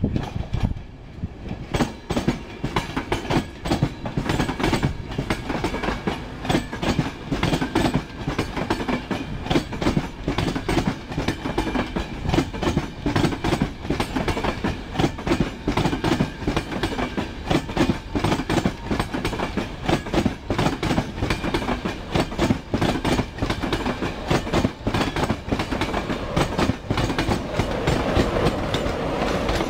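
InterCity 225 train of Mark 4 coaches passing close by, driving van trailer 82226 leading and Class 91 electric locomotive 91101 at the rear, its wheels clicking and clattering rapidly over the rail joints. Near the end a steadier hum comes in as the locomotive passes.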